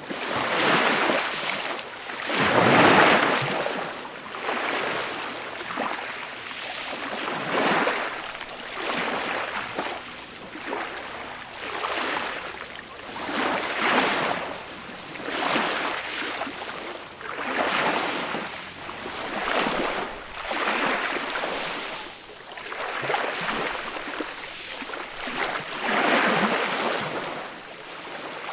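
Small sea waves breaking and washing up the shore, one soft swash after another about every two seconds, the loudest one about three seconds in.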